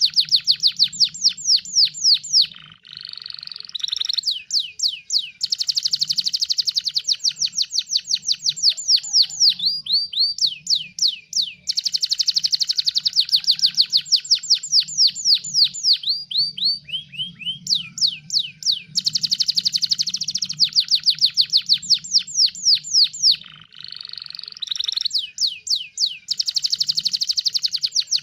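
Canary singing a fast, continuous song: long runs of quick repeated downward-sweeping whistled notes. Twice, a few seconds in and near the end, the song breaks into a short buzzy rattling roll.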